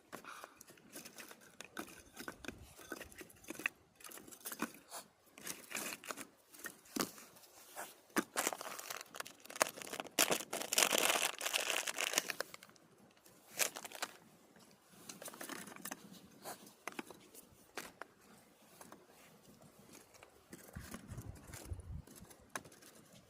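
Campfire crackling and popping with irregular sharp snaps, growing denser and louder, with a hiss, for a couple of seconds about halfway through.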